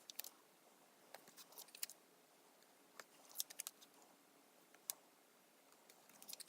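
Faint, scattered sharp clicks and small crisp paper ticks from planner stickers being handled, peeled and pressed down.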